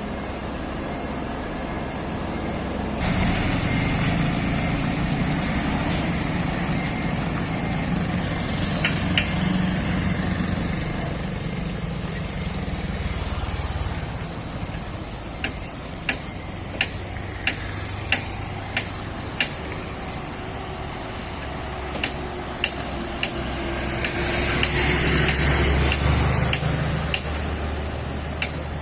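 A heavy diesel engine running steadily, louder from about three seconds in. Through the second half, sharp clicks sound about one or two times a second.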